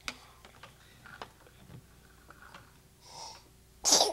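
A baby sneezes once near the end, a short sharp burst after a brief breathy intake. Faint small taps come before it.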